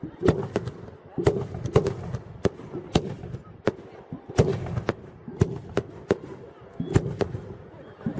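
Fireworks going off in quick succession: sharp, irregular bangs and cracks, about two or three a second, over a low rumble.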